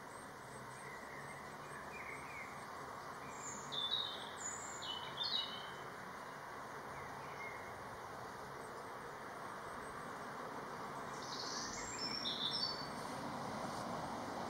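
Short, high bird chirps in a few scattered groups, about four to five seconds in and again about twelve seconds in, over a steady low background noise.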